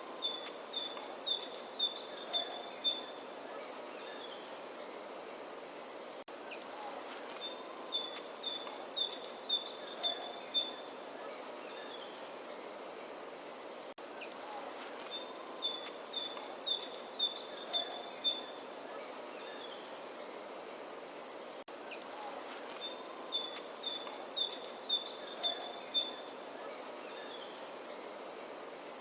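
A songbird singing the same short phrase again and again, about every eight seconds: a quick high falling flourish followed by two runs of short rapid notes, over a steady outdoor hiss.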